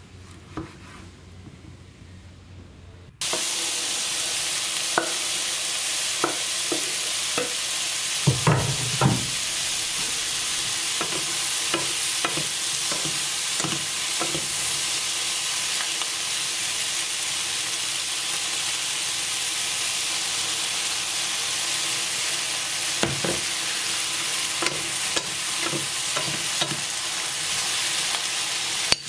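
For the first three seconds or so, a knife slices a tomato on a wooden board: quiet, with one click. Then, suddenly, comes the loud, steady sizzle of mushrooms, pointed red peppers and tomato frying in oil in a pan, with scattered knocks and scrapes of a wooden spatula stirring them.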